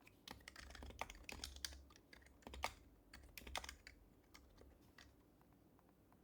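Typing on an HHKB Professional HYBRID Type-S keyboard, its silenced Topre capacitive keys giving soft, muted clacks. A quick flurry of keystrokes thins out and stops about five seconds in.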